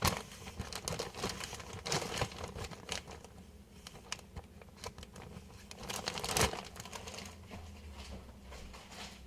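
Packaging of frozen pepperoni pizza bites crinkling and rustling as it is handled, with a louder crinkle about six seconds in.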